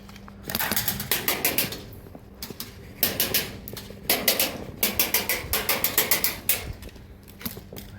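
Airsoft guns firing in several rapid bursts, each a fast run of sharp clicks.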